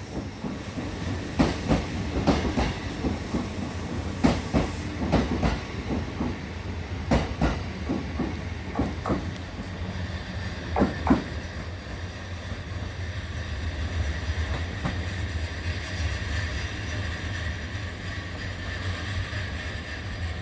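Electric train running past, its wheels clacking irregularly over rail joints for about the first eleven seconds, then only a steady low rumble.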